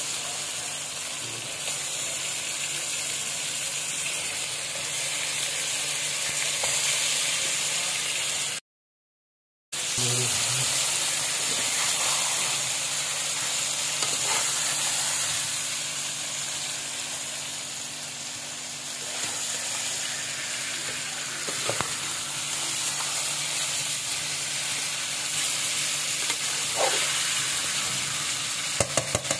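Fish steaks and onion-tomato masala sizzling steadily in mustard oil in an aluminium wok, a continuous frying hiss. The sound drops out completely for about a second around nine seconds in, and a few sharp metal clicks of a slotted spoon on the pan come near the end.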